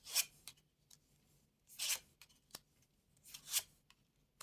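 Playing cards being slid and laid down on a table: three short swishes about a second and a half apart, with faint clicks between them.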